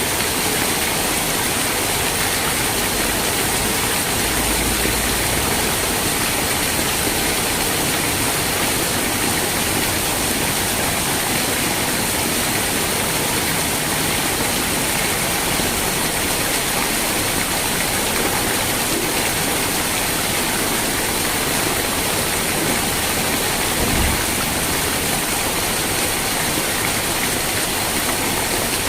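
Steady rain, a loud even hiss that never lets up, with one brief low thump near the end.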